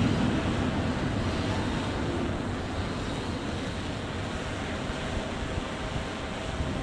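Rumble of a passing freight train fading steadily as it moves away, trailing off into steady wind noise.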